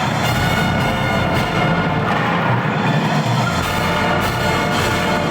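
Marching band playing: the brass section holds loud chords that change every second or two, over drum hits.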